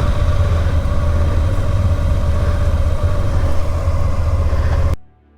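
Vehicle engine running steadily, with a steady whine over the engine rhythm; it cuts off suddenly near the end.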